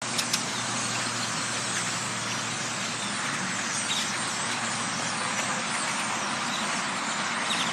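Large flock of birds calling all at once, a dense, continuous din of chatter with a few higher chirps standing out now and then.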